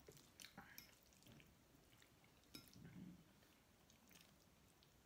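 Near silence with faint, scattered wet clicks of chewing and mouth sounds from someone eating, and a soft low murmur about three seconds in.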